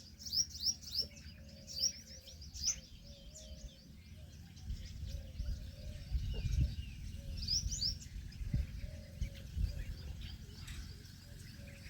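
Small birds chirping: quick, high, down-slurred notes in clusters, several in the first three seconds and again a little before the 8-second mark, over a low rumble that grows about halfway through.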